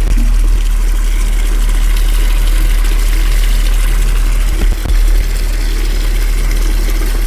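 A motor running steadily under a loud, even hiss, with a brief dip a little before halfway through.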